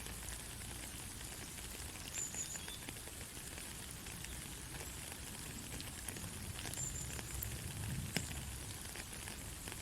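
Soft rain falling, a steady hiss with many scattered ticks of single drops. A few brief high chirps are heard about two seconds in and again near seven seconds.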